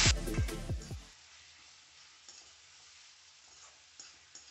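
Onions and tomatoes frying in a metal kadai as they are stirred, sizzling, fading out and gone by about a second in. Near quiet follows, with a few faint ticks.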